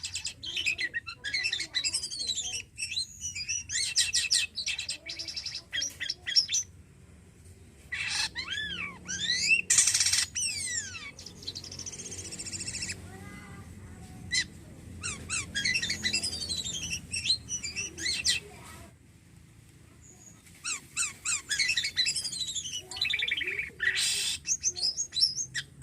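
Jalak kapas starling in full song: long runs of rapid, varied whistles and chattering notes in phrases of a few seconds, with two short pauses.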